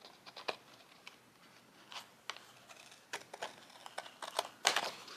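Faint, scattered small clicks and light rustles of paper and stickers being handled and pressed onto a planner page, with one louder brief rustle near the end.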